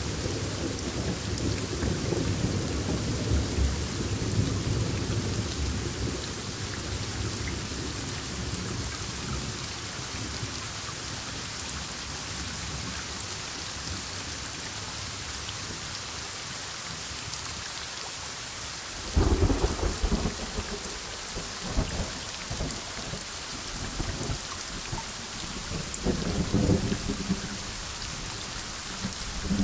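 Thunderstorm with heavy rain falling steadily. Thunder rumbles and fades over the first few seconds, then a sudden loud thunderclap comes about two-thirds of the way in, followed by more rumbles near the end.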